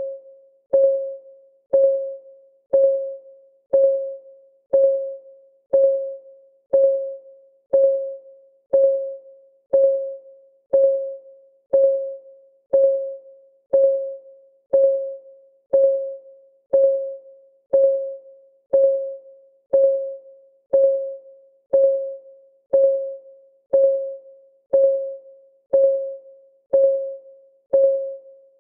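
Countdown timer's clock ticking sound: a short, pitched tick once a second, steady and even.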